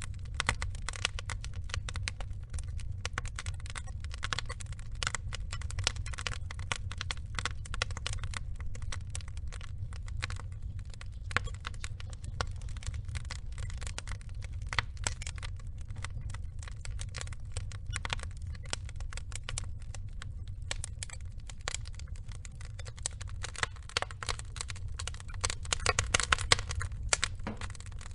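Wood logs burning in a fire, crackling and popping with dense, rapid crackles over a low steady rumble. The crackling grows louder and busier near the end.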